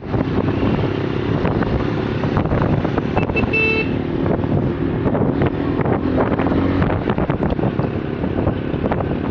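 Many motorcycle engines running together, with a short horn toot about three and a half seconds in.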